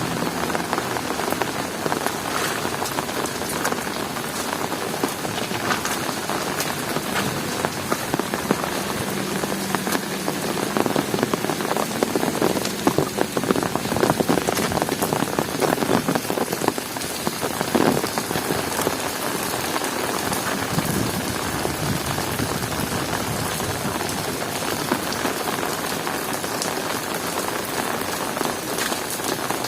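Heavy rain falling, a dense hiss thick with the ticks of individual drops, growing louder and heavier for a few seconds around the middle.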